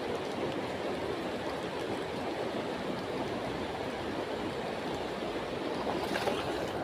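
Steady rushing noise of moving water, even throughout, with a brief faint hiss near the end.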